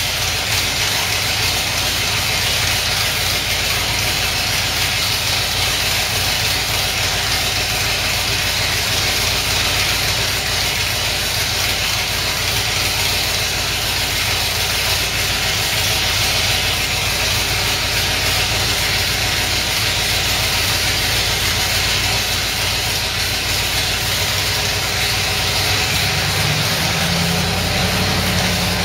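Aluminum-block 482 side-oiler V8 with Weber carburetors running steadily on its first-ever start, with a lot of hiss over the engine note. The Webers are not yet balanced. Near the end the engine speed steps up.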